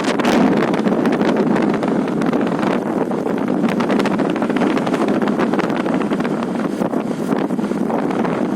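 Wind buffeting and rushing over the microphone of a moving bike, a steady rumble with constant crackle and no clear engine note.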